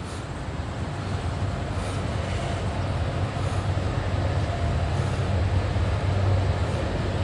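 Diesel locomotives of an approaching CSX coal train, a low engine drone that grows gradually louder.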